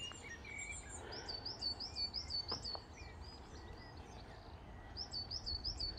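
A small songbird singing, a run of quick repeated high notes a little after the start and another run near the end, over a low steady outdoor rumble.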